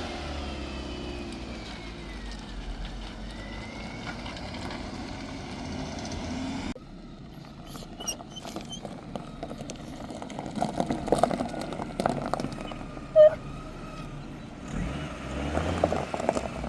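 A vehicle's engine running steadily, cut off abruptly about seven seconds in. After that come irregular clicks and knocks, with one short, loud tone about two-thirds of the way through.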